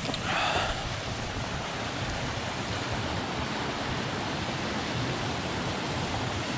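Steady rush of a waterfall: an even hiss of falling water.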